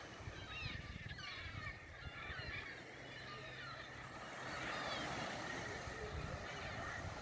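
Many birds calling with short chirps and whistles over a low steady rumble.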